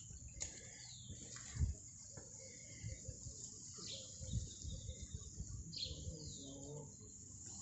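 Birds calling, a few short falling chirps, over a faint outdoor background with a few dull low thumps.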